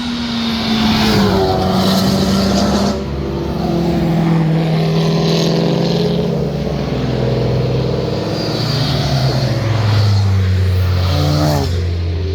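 Car engines and exhausts running hard as cars pass, the engine note rising and falling several times.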